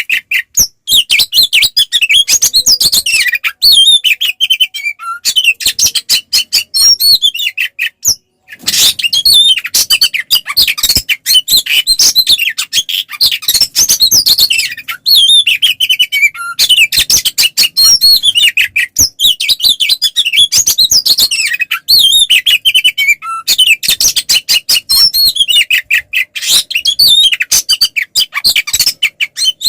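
Oriental magpie-robin (kacer) singing a loud, nearly unbroken, aggressive song of rapid whistles, warbles and sharp clicking notes, the fighting-mode 'ngeplong tarung' song; it breaks off briefly about eight seconds in and resumes.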